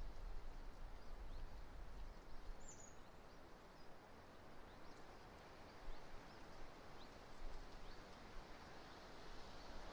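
Strong wind buffeting the nest webcam's microphone: a steady rushing hiss with a gusting low rumble. Faint short high chirps are scattered through it.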